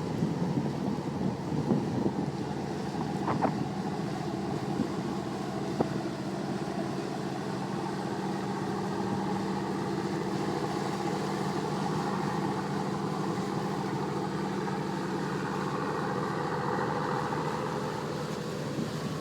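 A boat's engine running at a steady pitch, a constant low hum over wind noise, with a couple of faint clicks in the first few seconds.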